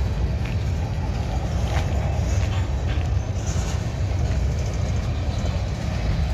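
Freight train rolling past at low speed: a steady low rumble with a few faint clicks from the wheels.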